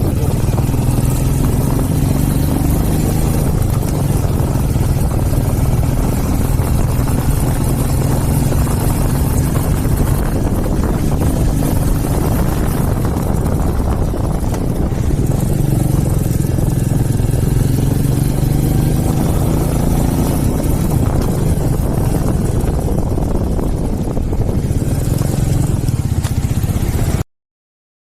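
Royal Enfield Meteor 350's single-cylinder engine running with its exhaust thump, steady, with a few gentle rises and falls in pitch; it cuts off suddenly near the end.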